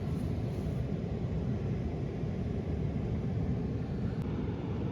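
Car engine idling with a steady low rumble, shortly after a cold-morning start.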